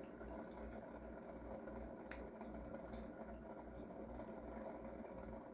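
Aquarium filter running as a quiet, steady hum with a faint water wash, and one faint click about two seconds in.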